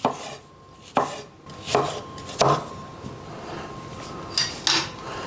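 Kitchen knife slicing an onion on a chopping board: about six sharp knocks of the blade on the board, coming at uneven gaps of roughly half a second to two seconds.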